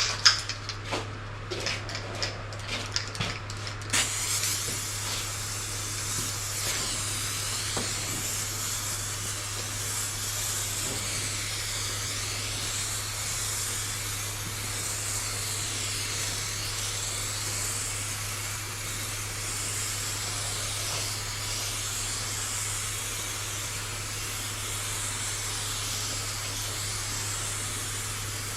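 A SprayMax 2K epoxy primer aerosol can: a few seconds of clicks and rattles, then a steady spraying hiss that runs on as coats of primer are laid down, over a constant low hum.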